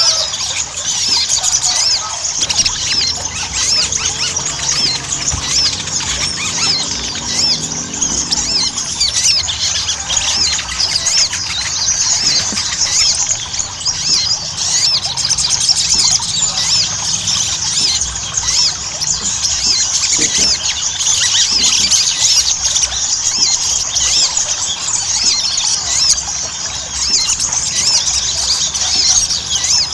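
Crimson sunbird singing without a break: a fast, dense stream of high, thin chirps and twitters.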